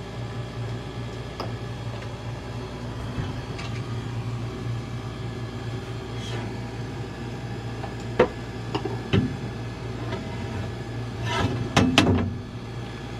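Scattered knocks and clicks of hands handling the ice machine's panels and drain hoses, with a louder cluster of knocks near the end, over a steady low hum.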